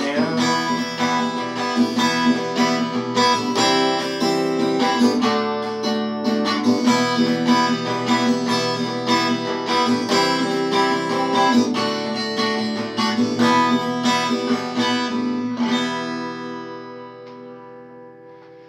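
Instrumental ending of a song on acoustic guitar: chords strummed steadily, then a last chord left ringing and fading out about 16 seconds in.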